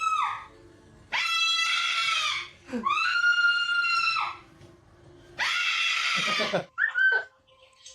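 Pet parrot screeching three times, each a loud, long, high call that holds its pitch and drops away at the end, followed by a few short chirps near the end.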